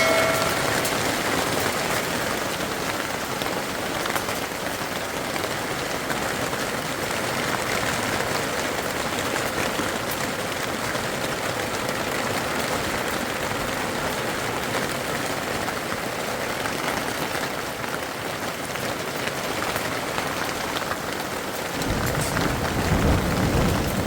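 Rain falling steadily and heavily. A low rumble joins near the end.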